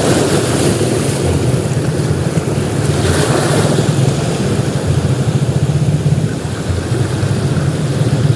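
Ocean surf breaking on a beach, a continuous loud wash with a surge of breaking wave about three seconds in. Wind buffets the microphone, adding a low rumble throughout.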